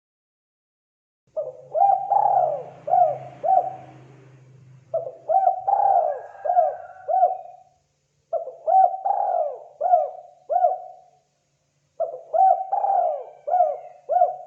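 Spotted dove (tekukur) cooing: four repeated coo phrases, each a quick run of five or six notes, beginning about a second in and following one another every three and a half seconds or so.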